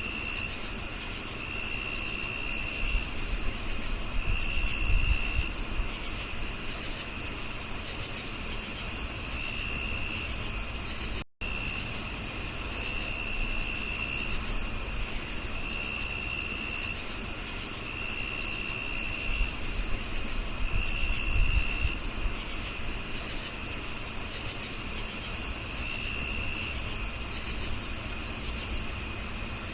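Crickets chirping together: one holds a steady high trill, another pulses in regular chirps about twice a second, and a lower one sings short trills of about a second with gaps between them. The sound drops out to silence for a split second about a third of the way through.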